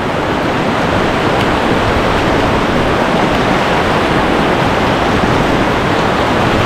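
Loud, steady rush of whitewater rapids pouring around the craft.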